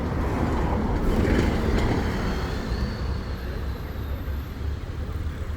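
Busy street traffic with vehicles passing, swelling a little about a second in as one goes by; no police siren stands out.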